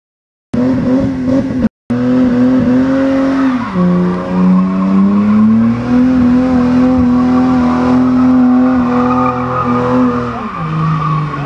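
BMW E30 325i's 2.5-litre straight-six held at high revs in a burnout, with the rear tyres spinning and squealing. The revs dip briefly about four seconds in, hold steady again, then drop near the end.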